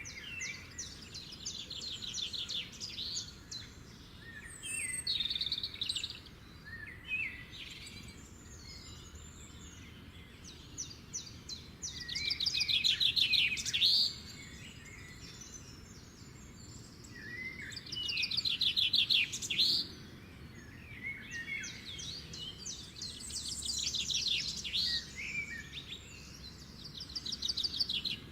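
Birds calling and singing in repeated phrases of rapid, high chirping trills, several of them louder bursts lasting a second or two each, over faint low background noise.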